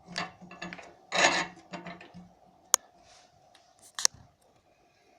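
Metal scraping as the air-intake damper of a cast-iron fireplace stove is slid shut: a short scrape at the start and a longer, louder one about a second in, followed by two sharp clicks.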